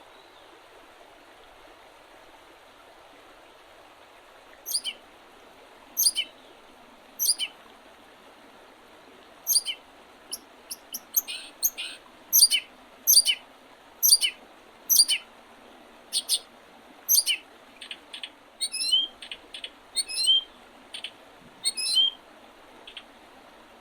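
Small songbird giving short, sharp calls that sweep down in pitch, a few seconds apart at first and then in a quicker, more varied run. Behind it is a steady hiss.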